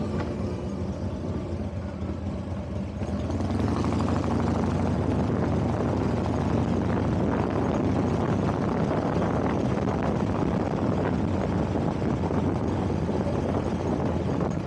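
Motor vehicle engine running on the move, with road and wind noise; it grows louder about three seconds in, as if accelerating.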